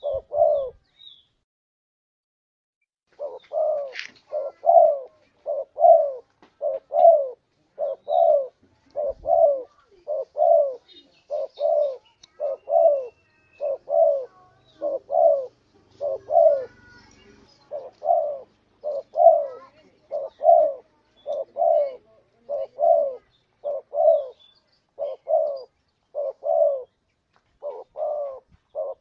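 Spotted dove (tekukur) cooing over and over in short low notes, mostly in pairs, with a pause of about two seconds near the start: the two-note 'kuk dua' call of a contest bird.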